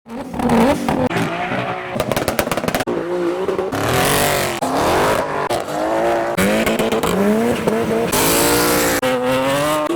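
Modified cars' engines revving up and down in quick succession, with a rapid string of exhaust pops and crackles about two seconds in and bursts of tyre squeal around the middle and near the end.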